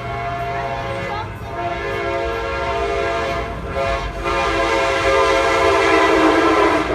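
Train horn sounding with a steady multi-note chord, growing louder as it nears and cutting off abruptly at the end.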